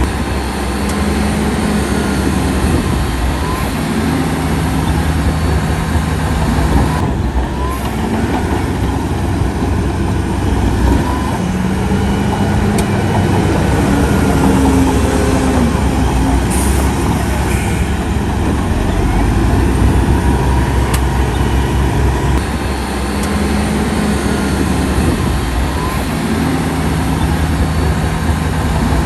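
Heavy diesel engine of earthmoving machinery running hard and continuously, its note rising and falling several times as the load changes.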